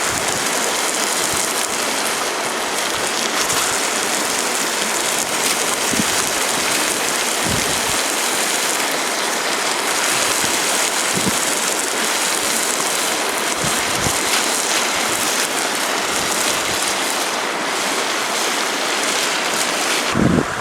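Steady hiss of rushing water, with a few faint low knocks here and there.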